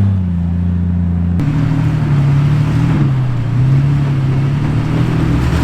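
An off-road truck's engine running at low speed, its note rising and falling as the throttle is worked. About a second and a half in the sound changes abruptly to a rougher engine note.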